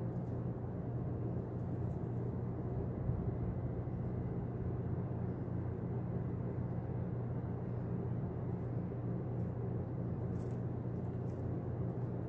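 Steady low rumble of outdoor background noise with a constant hum, and a few faint high ticks near the start and towards the end.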